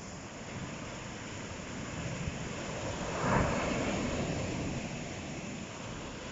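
Ocean surf: the wash of waves builds and one wave breaks about halfway through, then the rush eases off.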